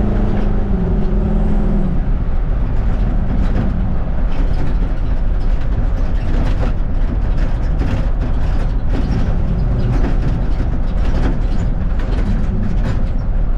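Mustang 5.0-litre V8 in a 1960 Ford F100 pickup running while the truck is driven, over loud, steady road noise. The engine note drops about two seconds in as the revs fall.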